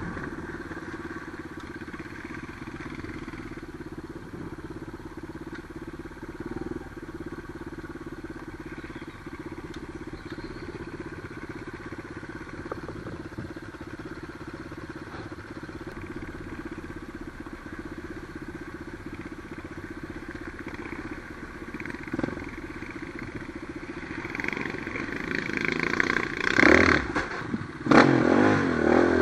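Trail motorcycle engine running at fairly steady revs while riding, then louder bursts of revving and clatter in the last few seconds.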